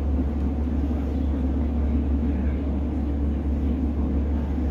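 Class 150 diesel multiple unit running, heard from inside the carriage: a steady low engine drone with an even rumble.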